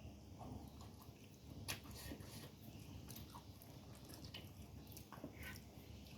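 Faint chewing and mouth sounds of someone eating, with scattered small crisp clicks and crackles.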